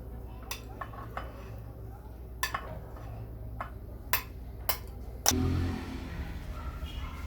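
Kitchen utensils and cookware clinking: a handful of sharp separate knocks a second or so apart. The loudest comes about five seconds in, with a short dull thump right after it.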